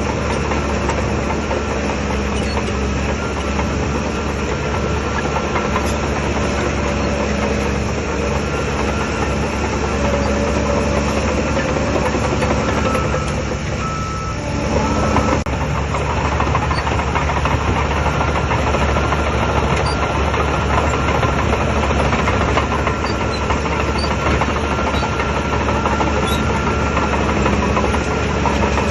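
Heavy diesel engine of a bulldozer running steadily. The sound dips briefly about halfway through, then comes back up.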